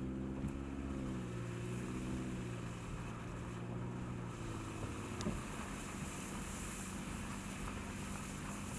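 An engine running steadily with a low hum; its tone shifts and thins about four seconds in. A single sharp tick sounds midway.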